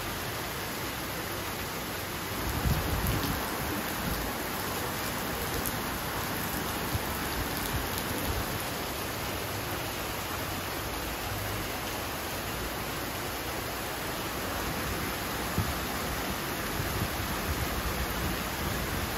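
Downpour of rain falling steadily on wet paving and grass, an even hiss, with a brief low rumble about three seconds in.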